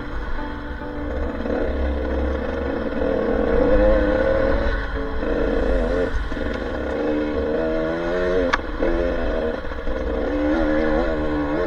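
Off-road dirt bike engine running under changing throttle, its pitch rising and falling as the rider works through the trail.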